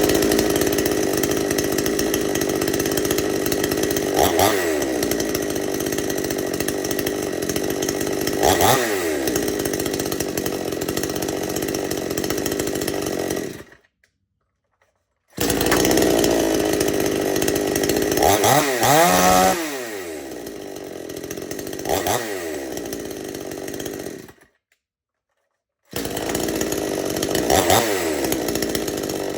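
Two-stroke chainsaw idling, blipped up to a brief rev and back down several times, once in a quick series. The sound cuts out abruptly twice for about a second and a half and then comes back.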